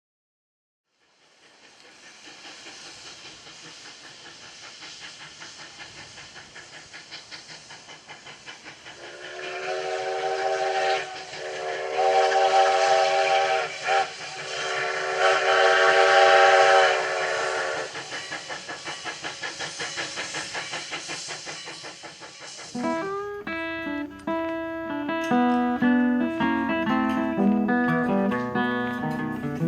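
Steam locomotive Sierra No. 3, a 4-6-0, working steam with a rapid rhythmic chuffing and hiss. From about nine seconds in its steam whistle blows three blasts, the last two longer. Near the end, acoustic guitar music comes in.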